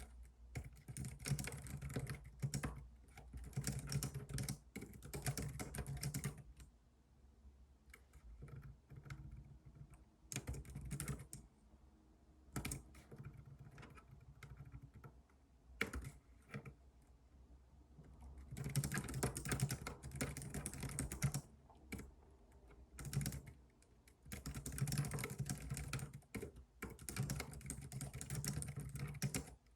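Typing on a computer keyboard, with runs of quick keystrokes broken by a pause of about ten seconds with only scattered key presses, after which the typing resumes in two more runs.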